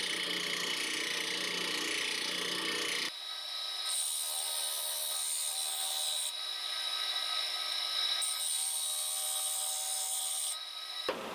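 A power tool running in a series of short spliced clips, its sound changing abruptly at each cut.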